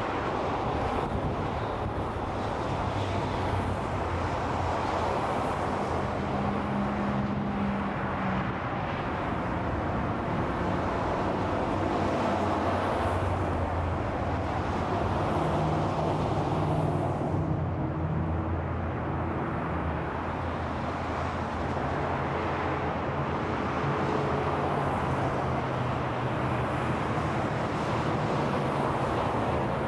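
Steady interstate freeway traffic: a continuous wash of tyre and engine noise from many passing cars and trucks, with the low hum of individual engines swelling and fading.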